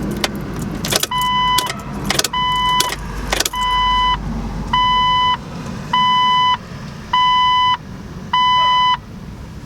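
Jeep Wrangler TJ's electronic warning chime beeping seven times, each tone about half a second long and about one a second, after a few sharp clicks.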